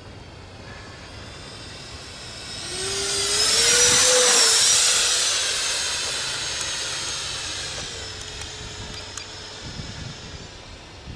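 Electric ducted-fan RC model jet (EF2000 Typhoon, 90 mm fan) making a pass: its whine and rush of air swell to a peak about four seconds in, then drop in pitch and fade as it flies away.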